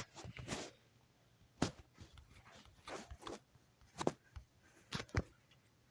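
A few short, soft clicks and knocks, spaced about a second apart, with quiet between them.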